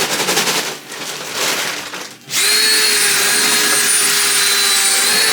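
Plaster powder pouring into a bucket with a rushing hiss, then about two seconds in an electric drill with a paddle mixer starts and runs steadily at full speed, mixing the plaster.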